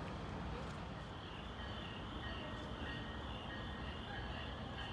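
Faint, steady low rumble of a distant commuter train approaching the station, with a thin high trilling of insects over it.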